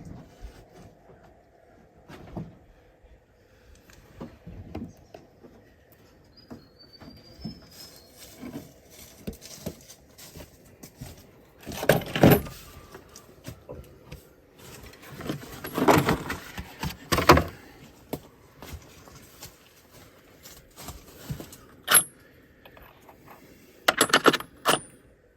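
Metal hand tools and sockets clinking and clattering in irregular handling sounds, with louder clatters about 12, 16 and 17 seconds in and again near the end.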